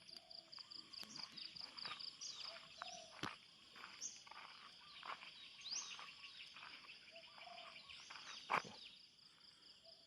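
Outdoor insect chorus: a steady high trilling with a fast pulsing chirp in the first couple of seconds, a few short bird calls, and scattered sharp clicks, the loudest about eight and a half seconds in.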